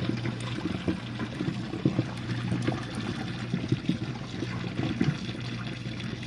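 Jenn-Air dishwasher running its main wash: water spraying and splashing inside the tub over a steady low hum from the wash pump.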